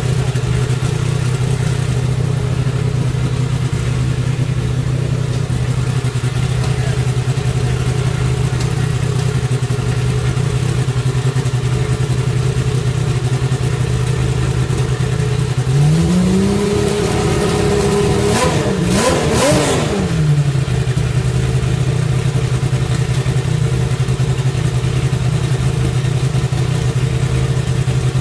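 1988 Nissan GTP-ZX Turbo's 3.0-litre turbocharged V6 racing engine idling steadily while being warmed up. A little past halfway it is revved up and held for a couple of seconds, then blipped a few times before settling back to idle.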